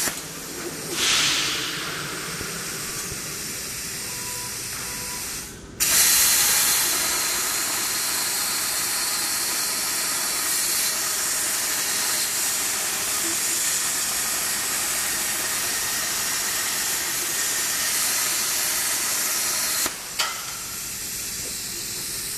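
CNC plasma cutter's arc running with a steady high hiss. It cuts out about five and a half seconds in and restarts with a sudden loud start, then breaks off briefly once more near the end.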